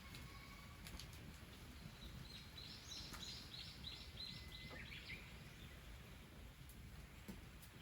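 Faint songbird song: a quick run of about eight repeated high notes about two seconds in, ending in a lower note, over a quiet outdoor background.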